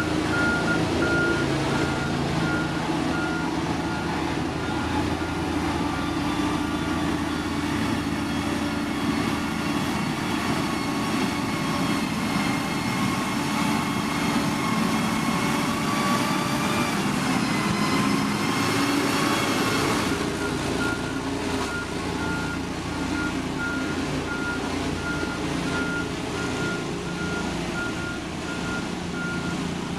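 Diesel engine of heavy construction machinery running under load, its pitch creeping up and then dropping about halfway through, with a reversing alarm beeping at the start and again from about two-thirds through as the machine backs up.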